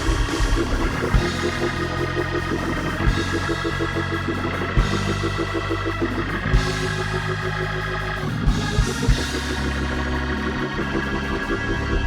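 Church band playing an instrumental passage between gospel songs: an organ holds sustained chords over a bass line, with a few drum hits.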